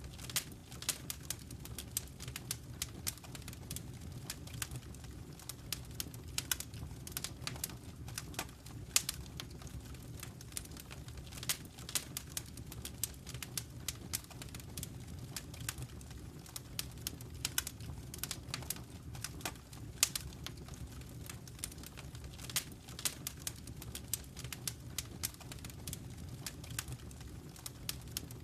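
Wood fire crackling in a fireplace: many sharp irregular pops and snaps, several a second, over a low steady rumble.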